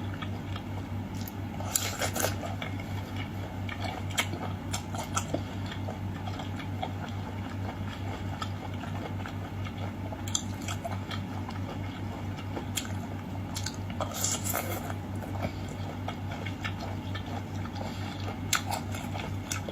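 Close-up eating sounds of someone chewing springy ready-to-eat sea cucumber, with a few short clicks scattered through, over a steady low hum.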